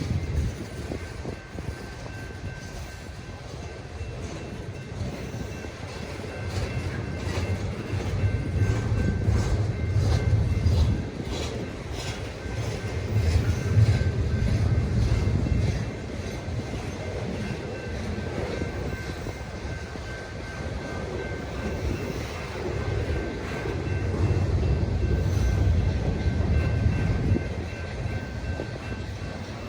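Train cars rolling past on the rails, with a low rumble that swells and eases every few seconds and bursts of wheel clicks over rail joints.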